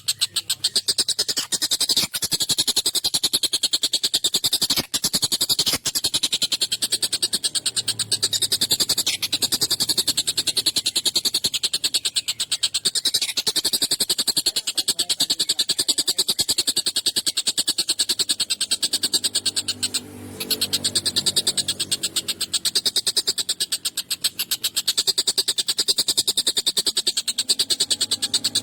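Tengkek buto calling in a long, rapid, continuous chattering series of sharp, harsh notes, with a short break about twenty seconds in.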